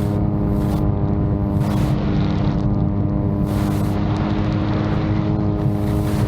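VTOL drone's propellers and motors running with a steady, unchanging drone, while gusts of strong wind buffet the microphone in short rushes of hiss.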